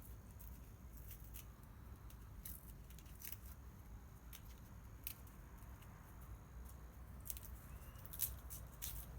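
Wood bonfire crackling faintly: scattered sharp snaps and pops over a low rumble, one louder snap near the end.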